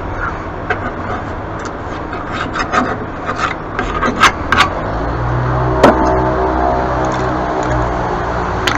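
A loud vehicle engine running on the road, louder from about halfway through, with scattered scrapes and clicks from work on a metal mower deck.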